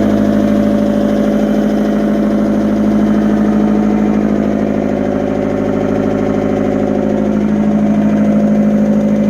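Fiat Hitachi FH150 excavator's Iveco 8045 diesel engine idling steadily.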